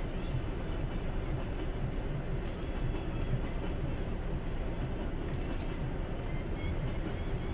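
Passenger train hauled by an EP2K electric locomotive rolling past, giving a steady rumble of wheels on the track.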